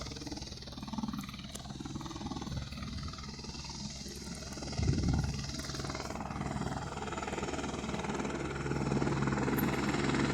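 Helicopter running on the ground, a steady low drone that grows louder toward the end. A brief low thump about five seconds in.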